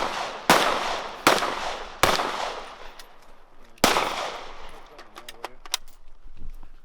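Gunshots: four loud shots, the first three under a second apart and the fourth after a pause of nearly two seconds, each trailing off in an echo. A few fainter cracks follow about two thirds of the way in.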